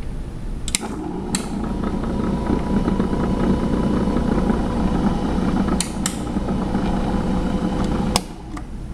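Electric drive motor of a LECO VP50 grinder-polisher running with a steady hum and whine for about seven seconds. It is switched on with clicks about a second in and cut off with a click near the end.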